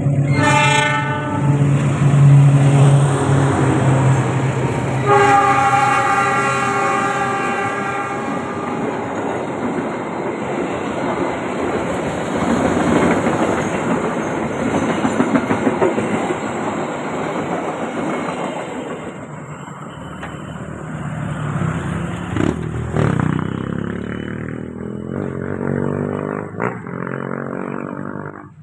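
Diesel locomotive of an Indonesian passenger train sounds its horn twice as it approaches: a short blast, then a longer one of about four seconds, over the low running of its engine. Then the coaches pass close by with loud wheel-on-rail noise that dies away, with a few knocks near the end.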